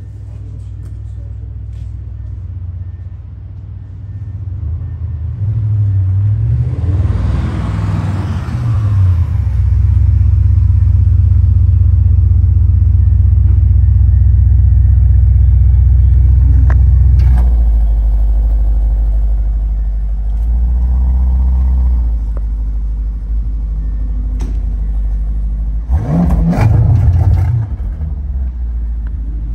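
A vehicle engine running and revving: it builds up over the first several seconds, holds a loud steady drone, eases off, then gives a short rev near the end.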